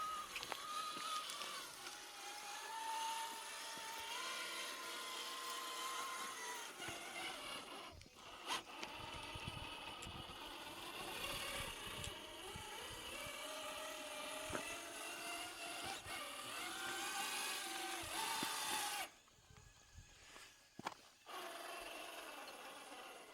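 Electric drive motor of an Rlaarlo JK07PRO 1/7-scale RC trail truck whining, its pitch rising and falling with the throttle, with scattered clicks and scrapes from the truck crawling over rough ground. The sound drops away for a couple of seconds near the end.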